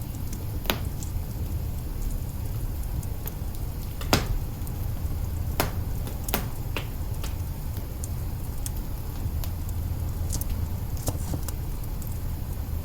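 Wood fire burning in an open hearth, crackling with sharp pops at irregular intervals, the loudest about four seconds in, over a steady low rumble.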